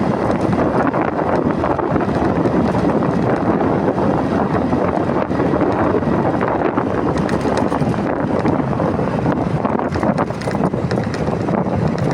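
Steady wind rushing over the microphone of a motorcycle on the move, with the ride's road and engine noise under it.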